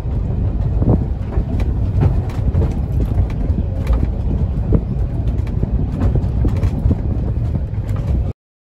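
Railway works train on the move: a loud, steady low rumble with frequent irregular knocks and clanks. It cuts off abruptly near the end.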